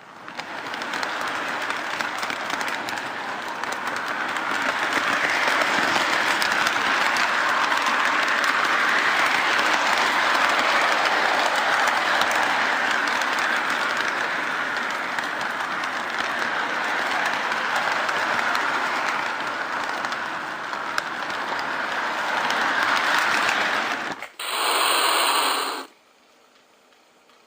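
O gauge model train cars rolling along the track, heard up close from on board: a steady, dense rattling clatter full of fine clicks. About 24 seconds in it gives way to a short, different burst of sound and then drops to near silence.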